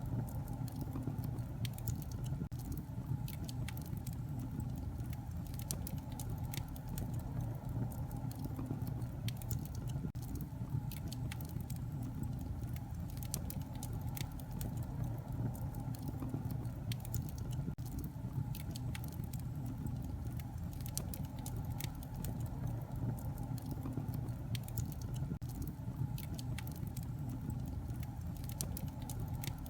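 Wood fire in a fireplace crackling: frequent sharp snaps and pops, irregularly spaced, over a steady low rumble of flames.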